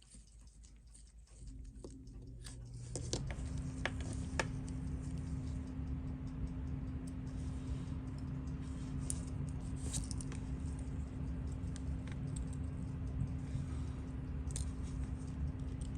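Small scattered clicks and taps of watchmaker's tweezers and tools on movement parts during disassembly, over a low steady hum that starts about a second and a half in and gets louder a second later.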